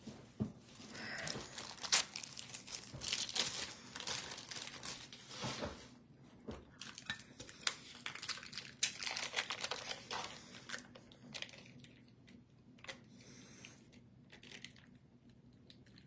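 Foil trading-card pack wrapper being torn open and crinkled, a busy run of rustling and crackling for the first ten seconds or so, then fainter handling with a few clicks.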